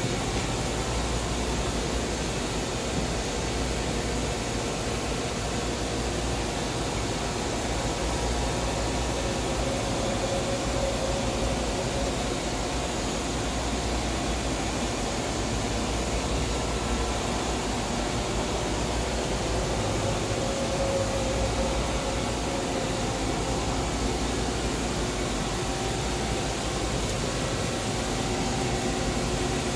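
1995 Mazak VTC-16A CNC vertical machining centre running steadily: an even hiss with a low hum and a few faint whining tones, coming up at the start and holding level.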